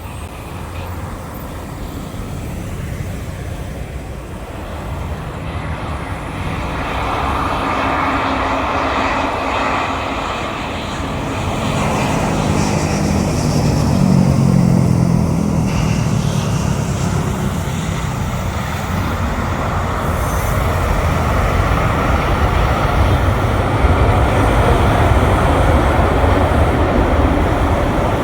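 Jet airliner engines passing close, the noise swelling steadily louder, with a dip in pitch about halfway through as the aircraft goes by.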